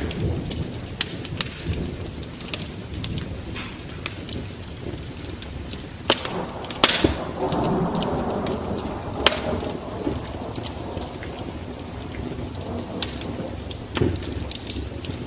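Wood fire crackling, with irregular sharp pops over a low rumble that swells for a few seconds around the middle.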